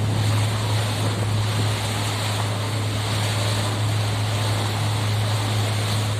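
A wooden abra water taxi's engine drones steadily while under way, under a rushing wash of water and wind noise.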